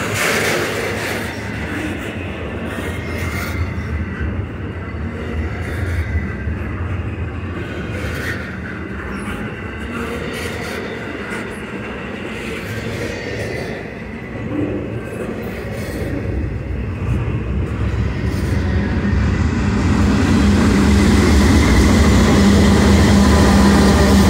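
Loaded intermodal freight cars rolling past on steel rails, the wheels running and clattering. From about three-quarters of the way in, a Union Pacific GE AC45CCTE diesel locomotive working as mid-train distributed power draws near, and its engine drone grows steadily louder.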